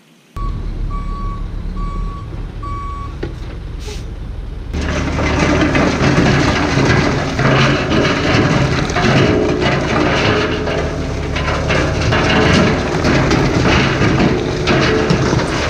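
Heavy diesel construction equipment: a reversing alarm beeps four times over a running engine, then about five seconds in the sound becomes much louder as heavy machinery runs hard with a steady low engine hum.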